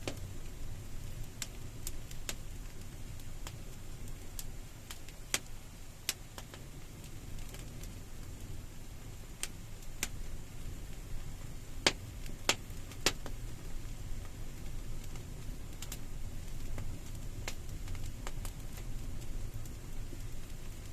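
Wood campfire crackling: scattered sharp pops over a low, steady rumble of the flames, with three louder pops close together about twelve seconds in.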